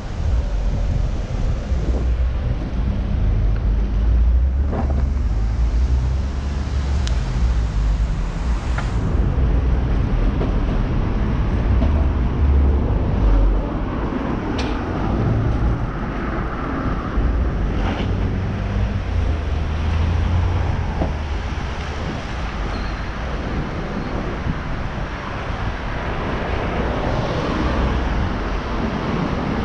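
Wind rumbling on the microphone, heard from a moving cargo bicycle, with street traffic noise, a steady heavy rumble and a few faint clicks.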